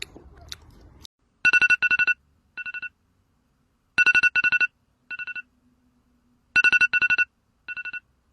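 Electronic telephone ringtone: a trilling double ring followed by a quieter short trill, repeated three times about every two and a half seconds.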